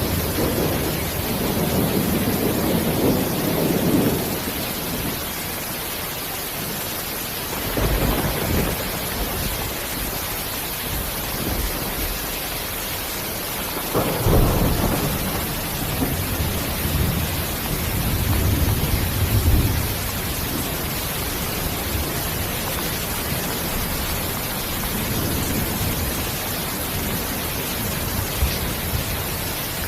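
Steady heavy rain hiss with several low rolls of thunder swelling and fading, the sharpest one breaking about halfway through.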